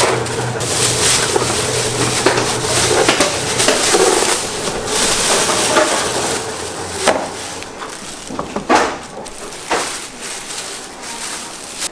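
Kitchen work noise: a steady low hum that stops about three and a half seconds in, under a constant hiss, with a few sharp knocks and clatters of utensils in the second half.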